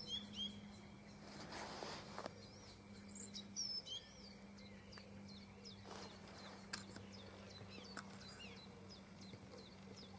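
Faint small birds chirping and twittering in many short, quick notes, over a steady low hum.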